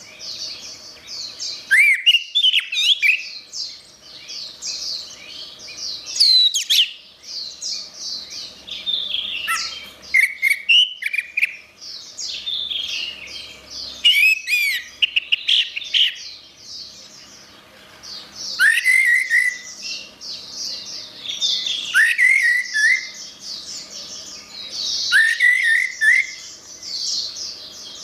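Orange-headed thrush singing a long, varied song of rapid high chirps and trills, broken every few seconds by louder sweeping whistled phrases.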